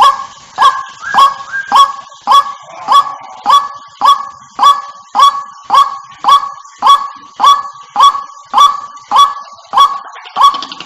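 White-breasted waterhen call: a short rising note repeated at an even pace, a little under two a second.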